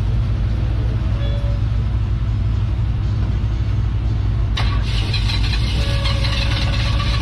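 A motor vehicle engine running steadily with a low rumble. About four and a half seconds in, a brighter hissing noise starts suddenly on top of it.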